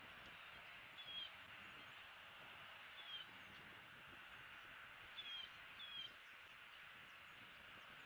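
Faint outdoor ambience: a steady hiss, with a bird's short, high, falling chirps four times, spaced one to two seconds apart.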